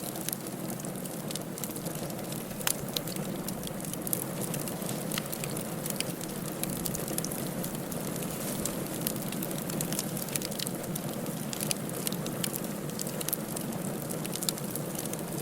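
Firewood burning in a fireplace: a steady hiss with frequent sharp crackles and pops, scattered irregularly.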